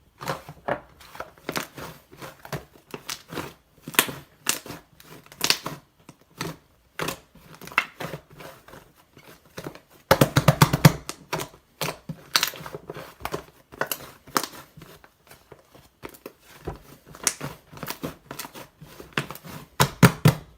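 White slime being squeezed and stretched by hand, giving irregular sticky clicks and pops, with a denser flurry of pops about halfway through.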